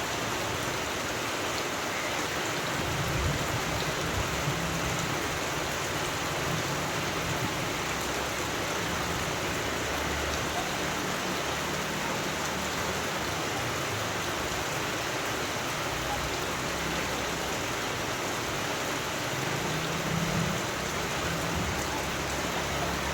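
Steady rain falling, a dense, even hiss of drops with no let-up.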